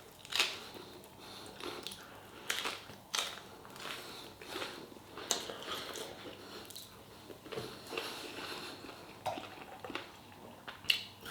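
Close-up eating sounds: chewing and biting meat off pork ribs, with irregular wet smacks and crunches.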